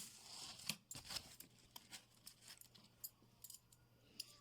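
Faint handling of craft materials: scattered light clicks and brief soft rustles of paper and cellophane being measured and positioned.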